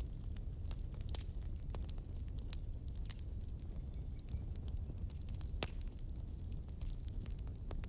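Wood campfire burning, crackling with sharp irregular pops over a low steady rumble. A brief high squeak comes twice, near the start and about two-thirds of the way through.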